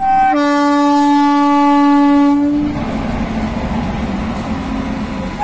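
Electric freight locomotive horn sounding one long blast of about two and a half seconds, opening on a brief higher note, then the rumble of the WAG-9 locomotive and its loaded wagons rolling past.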